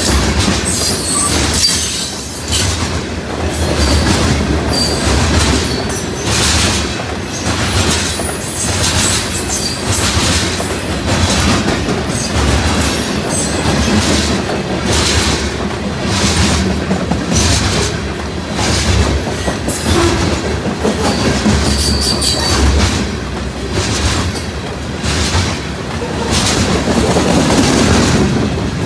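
Loaded grain cars of a long freight train rolling past, their wheels clacking steadily over the rail joints over a low rumble, with a few short, high wheel squeals.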